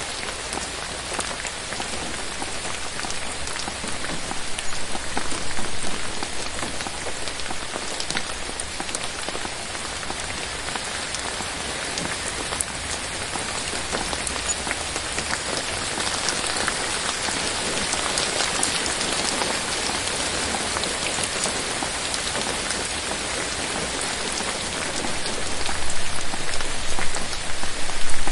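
Steady rain falling, with many individual drops heard as sharp taps over an even hiss. It grows briefly louder about five seconds in and swells louder near the end.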